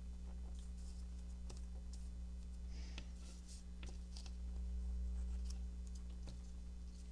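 Craft papers being handled on a work table: soft rustles and scattered light clicks and taps, over a steady low hum.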